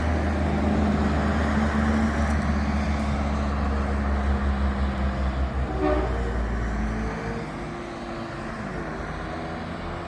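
Fire truck diesel engine running with a deep rumble, which fades about seven seconds in as the truck pulls away. A short horn toot sounds about six seconds in.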